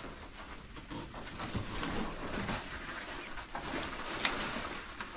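A bird cooing, dove-like, over a steady hiss, with one sharp click about four seconds in.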